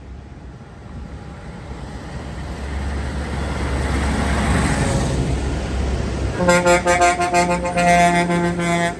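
A vehicle drives past, its engine and road noise swelling to a peak and then easing off. Then a horn sounds in a rapid string of short, pulsing honks at one steady pitch.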